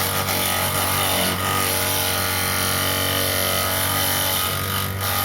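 Motor-driven grass chopper (chaff cutter) running steadily, a constant low hum with a bright, hissing whir from the cutting blades.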